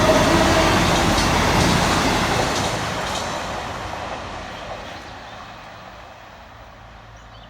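CrossCountry Voyager diesel multiple unit passing through the station at speed. Its loud rush of noise dies away steadily over about five seconds as it recedes.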